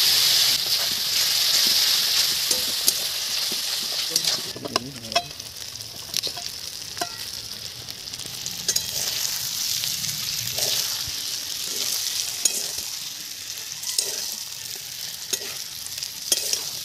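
Spice and onion masala sizzling hard and steaming in an aluminium wok, the hiss dropping about four seconds in to a quieter fry. A metal spatula clicks and scrapes against the pan as boiled eggs and potatoes are stirred through the masala.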